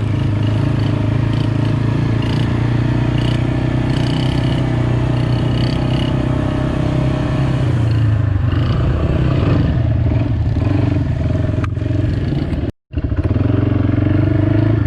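Dirt bike engine running steadily at a low, even pace, its pitch wavering slightly about halfway through. The sound cuts out for an instant near the end.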